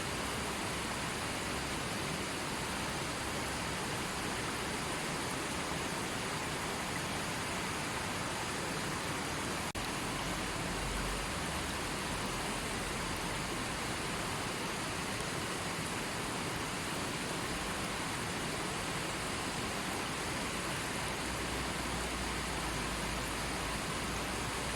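River water flowing steadily, a continuous rushing.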